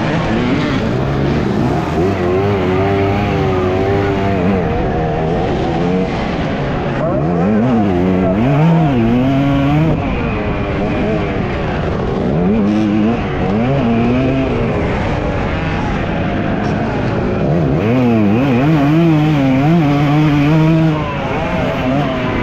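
Dirt bike engine under hard riding, its pitch repeatedly rising and falling as the throttle is opened and closed.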